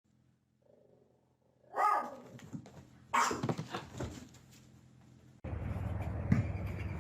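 A pet animal vocalizing in two short cries, then an abrupt change to a steady noisy background.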